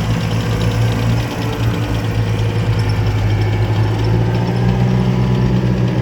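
Engines of heavy military vehicles in a parade running with a steady, unbroken hum.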